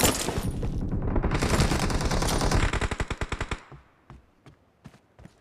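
Video game automatic gunfire. A loud shot at the start leads into a sustained burst of rapid fire lasting about three and a half seconds, which then thins to a few scattered, quieter shots.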